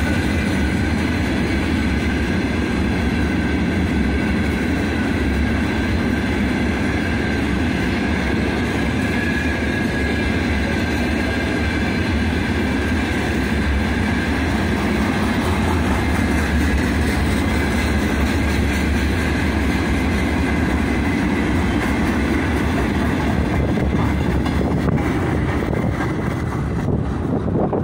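Freight train of open gondola wagons rolling past close by: a steady loud rumble and clatter of steel wheels on the rails, with a thin steady high tone over it. The higher part of the sound fades near the end as the last wagons pass.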